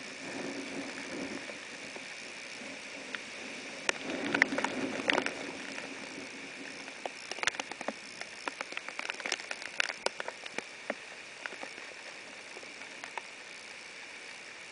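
Steady hiss of hurricane rain, with many sharp taps of raindrops striking close by, thickest between about four and eleven seconds in.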